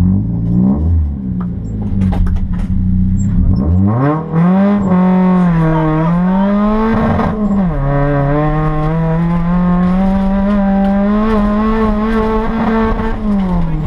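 Rally car engine heard from inside the cabin, held at steady high revs at the stage start, then accelerating hard away with a sharp rise in pitch about three and a half seconds in. The pitch falls twice as it shifts up through the gears, then it runs steadily at speed and eases off near the end.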